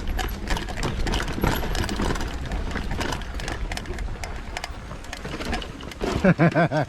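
Mountain bike climbing over rocks: a dense, irregular rattle and clicking of the bike's tyres, chain and frame on rock over a low rumble. Near the end a person's voice rings out briefly and loudly.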